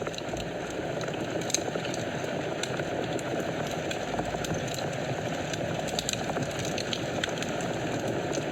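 Fireplace fire burning with a steady low rush of flames and frequent sharp crackles and pops from the burning wood.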